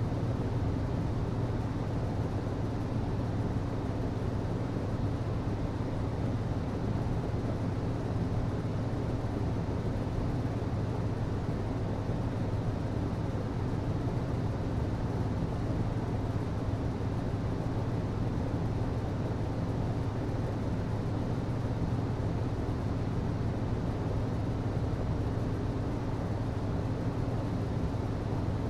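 HVAC system running steadily: a constant low hum under an even whoosh of moving air, with no change throughout.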